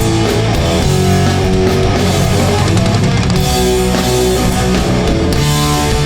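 Hardcore punk band playing live through a PA: distorted electric guitars, bass and drum kit in a slow, heavy song.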